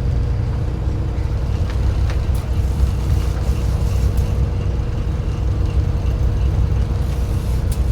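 Boat engine running steadily: a constant low drone with a faint steady hum over it.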